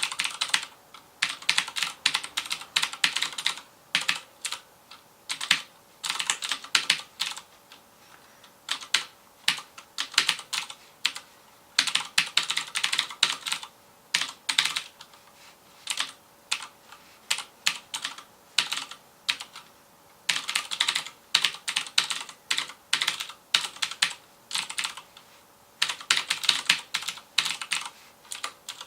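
Fast typing on a FILCO Majestouch Convertible 2 mechanical keyboard with clicky Cherry MX Blue switches: quick runs of sharp keystrokes broken by short pauses.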